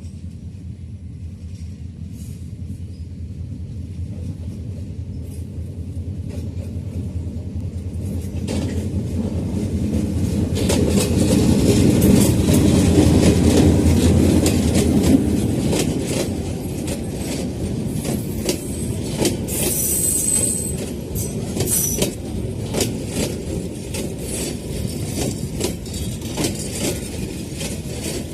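Bijoy Express passenger train running on the rails: a low rumble that grows louder toward the middle and then eases, with repeated clickety-clack of wheels over rail joints and a brief high-pitched squeal about twenty seconds in.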